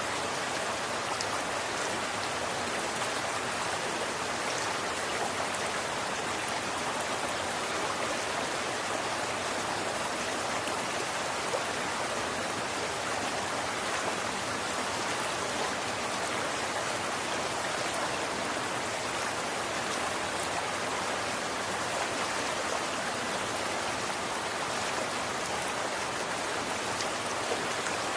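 Running water flowing steadily, an even rushing splash with faint scattered droplet ticks.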